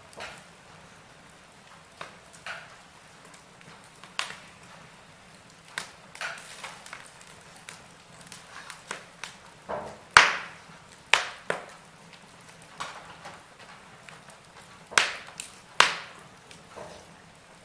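Wood fire in a fireplace crackling: irregular sharp pops and snaps over a low hiss, the loudest pop about ten seconds in.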